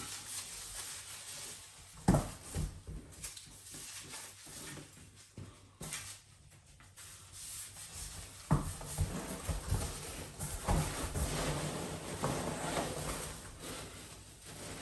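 Rubbing and rustling of packing foam being gathered up by hand, with a few sharp knocks.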